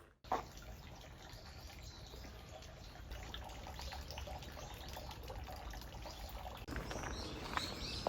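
Steady trickle of running water, with a few short bird chirps near the end.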